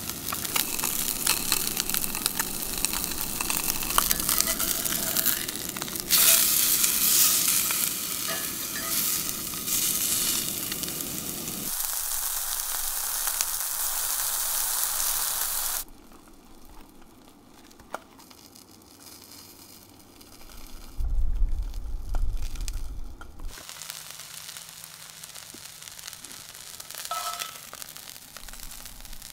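Trout fillet and sliced red onion sizzling in oil in a cast-iron skillet, a steady hiss. About halfway through the sizzle stops and it goes quiet, apart from a brief low rumble.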